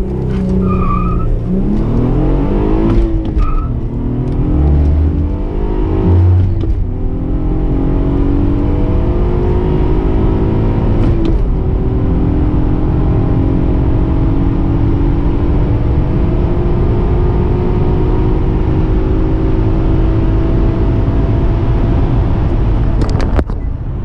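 Acura TL SH-AWD's 3.7-litre V6 at full throttle from a launch, heard inside the cabin. The revs climb and fall back with quick manual upshifts at about three, seven and eleven seconds in, then make a long steady climb in fourth gear until the throttle is lifted near the end.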